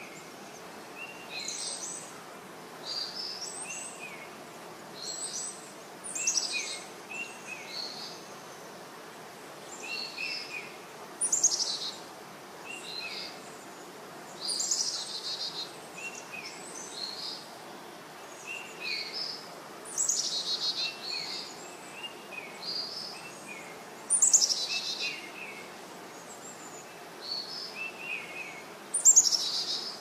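Wild birds calling over a steady hiss of background noise: short chirps repeating throughout, with a louder, falling call every few seconds.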